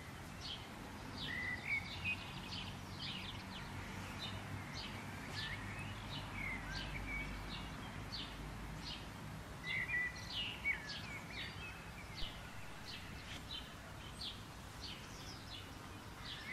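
Birds chirping, with many quick short notes and a few short whistled notes, over a faint steady outdoor background hiss.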